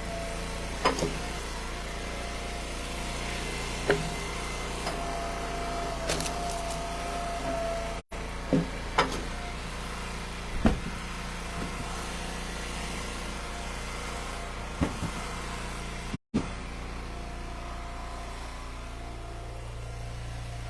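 Gas engine of a hydraulic wood splitter running steadily while ash rounds are split, with about half a dozen sharp cracks and knocks from the wood spread through. The sound cuts out briefly twice.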